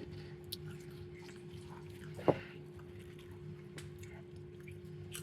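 A steady low hum with a few faint small clicks, and one sharp knock a little over two seconds in.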